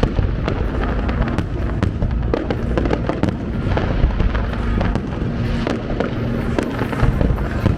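Fireworks display: a continuous barrage of bursts and crackling pops over a steady low rumble, with music playing faintly underneath.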